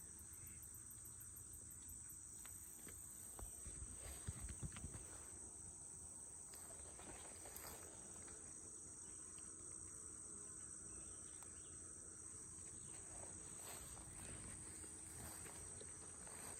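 Faint, steady high-pitched chorus of insects such as crickets, with a few soft low bumps about four seconds in.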